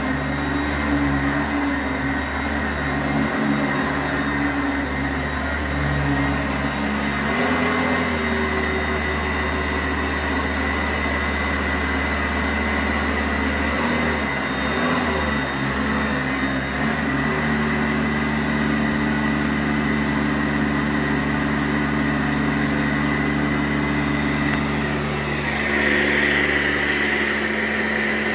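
Sanitaire SC684G vacuum cleaner running steadily on carpet, its motor hum shifting a little a few times as the load changes. A brighter hiss comes in near the end.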